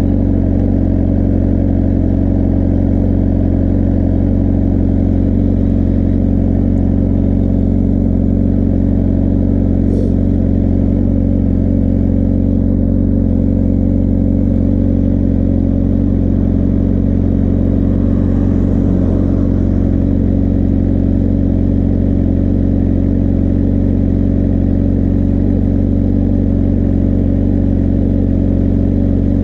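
Suzuki GSR400 inline-four running through a Yoshimura Cyclone Tri-Oval exhaust, idling at a steady, even pitch.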